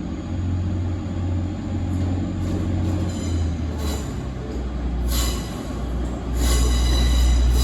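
Train at a station with a steady low rumble, joined about five seconds in by a high metallic wheel squeal that grows louder as the train comes closer.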